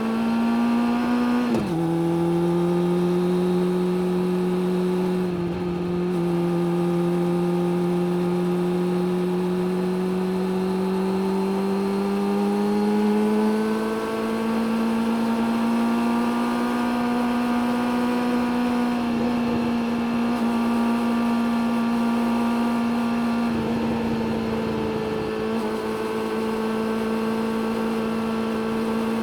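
Suzuki GSX600F's inline-four engine running under load, with a steady rush of wind. Its pitch drops with a gear change about one and a half seconds in, climbs slowly over the next dozen or so seconds as the bike gathers speed, then holds nearly steady at a cruise with a brief dip near the end.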